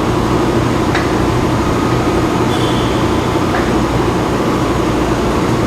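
Steady machine hum with an even rushing noise, with a few faint clicks about one and three and a half seconds in.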